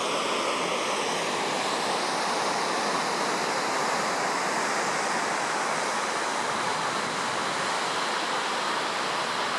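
Tama River in flood after a typhoon, its muddy torrent giving a steady, unbroken rush of turbulent water.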